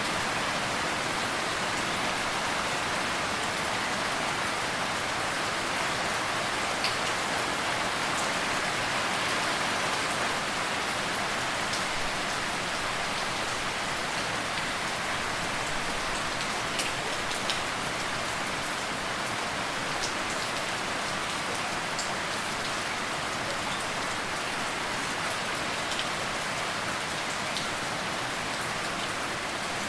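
Steady rain falling on a surface, an even hiss with the odd louder drop ticking through it.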